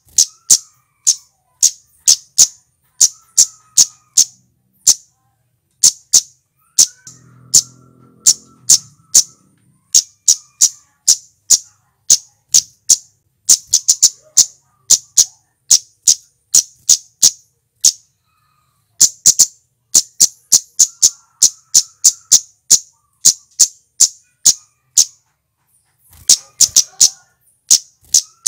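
Male cit keres (cabe-cabean flowerpecker) calling: sharp, very short, high-pitched 'cit' notes, about three or four a second in long runs broken by brief pauses. It is used as a lure call to set wild flowerpeckers calling.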